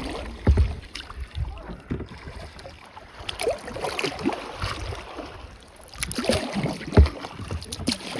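Kayak paddles dipping and splashing in lake water, stroke after stroke, with irregular low thumps.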